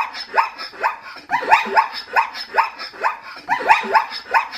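Zebra calling: a rapid run of high, yelping barks, each falling in pitch, about four or five a second, repeated in runs.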